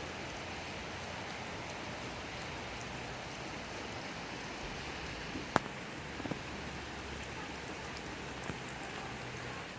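Steady rain falling, an even hiss of drops. About halfway through there is one sharp tap, louder than the rain, followed by a few fainter taps.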